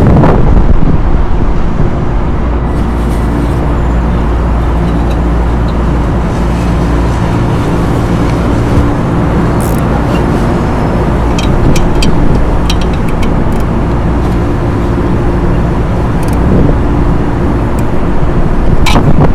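Steady mechanical drone with a low hum of several steady tones. Scattered short clicks from a small hand ratchet tightening the fan motor's mounting come about halfway through and again near the end.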